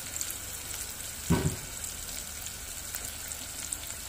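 Sliced onions and turmeric frying in hot oil in an aluminium pot: a steady sizzle with fine crackles. There is one dull knock about a second in.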